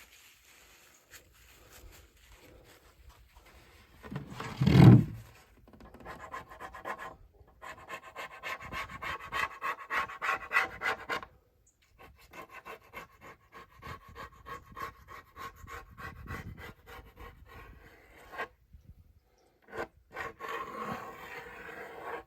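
Plastic scraper scraping softened glue residue off a bare wooden drum shell, in runs of rapid back-and-forth strokes with short pauses between them. A single louder thump comes about five seconds in.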